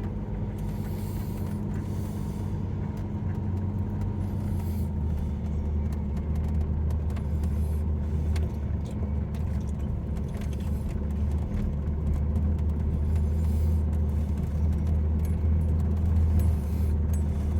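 Jeep Comanche engine idling steadily with a low, even hum while warming up after a cold start.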